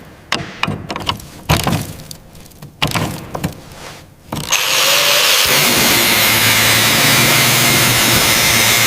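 Workshop tool sounds: a run of sharp knocks and clicks, then about halfway through a power tool starts suddenly and runs loud and steady with a hissing whir.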